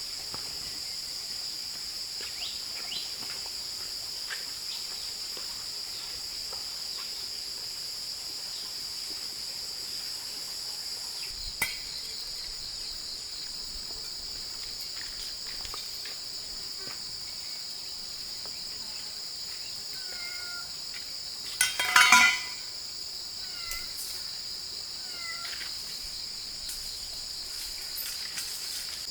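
A chorus of insects makes a steady, high-pitched shrill drone throughout. A short, loud clatter of a few knocks comes about two-thirds of the way in, and a bird gives a few short falling chirps around it.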